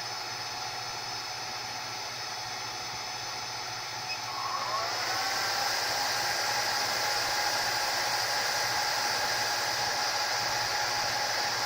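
Hot-air blower of a rework station running with a steady hiss and whir; about four seconds in its pitch glides up and it gets louder, as if switched to a higher fan speed.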